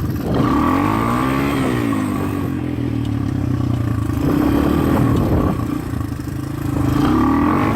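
200 cc dirt bike engine running while being ridden, its pitch rising and falling several times as the throttle is opened and closed.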